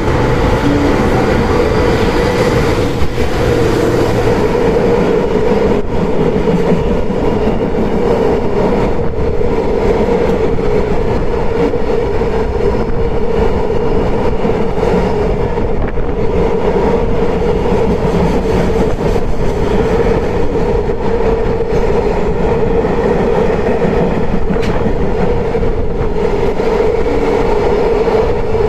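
Freight train passing, its wagons rolling by in a loud, steady rumble with a held tone and wheel clicks over the rail joints.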